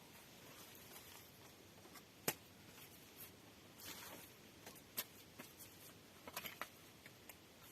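Quiet room with a few scattered sharp clicks, the loudest about two seconds in and a quick cluster near the end, and a soft rustle in between.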